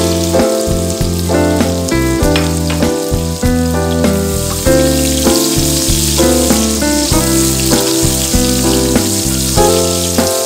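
Chopped onions sizzling as they sauté in hot oil in a wok, under instrumental background music with a bass line and a steady beat.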